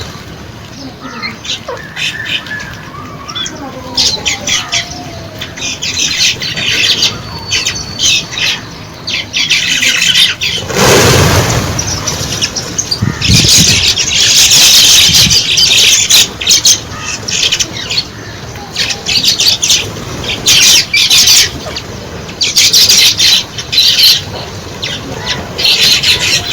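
A large flock of birds calling with dense, overlapping chirps and squawks, and the flutter of wingbeats. A loud whoosh about eleven seconds in.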